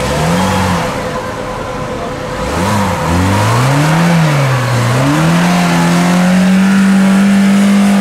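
Car engine revving hard: the revs rise and fall several times, then are held high and steady from about halfway through.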